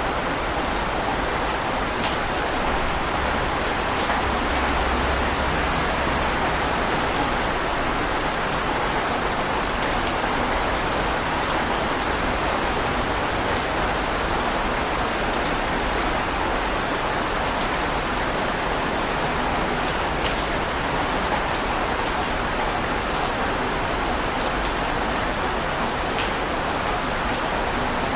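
Heavy rain falling steadily: a dense, even hiss of rain with occasional sharper drop ticks.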